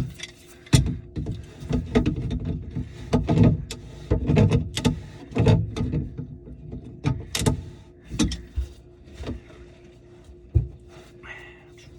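Irregular knocks, clicks and clatter of tools and parts being handled during plumbing work under a kitchen sink, over a faint steady hum.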